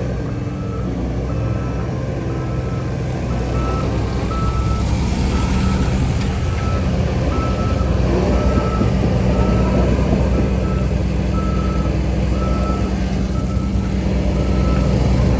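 Reverse backup alarm of a heavy machine beeping steadily, about two beeps a second, over the steady drone of its diesel engine as it reverses.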